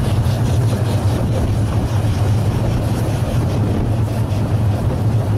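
Steady rumble of a 12¼-inch gauge miniature steam train running along the track, heard from an open passenger carriage on board.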